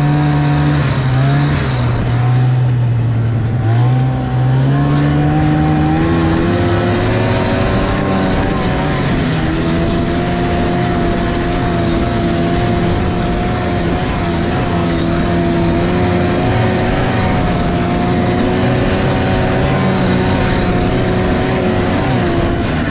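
Snowmobile engine running under throttle over a rush of wind and track noise: the pitch drops twice early on, climbs about four seconds in, then holds steady at speed with small rises and falls.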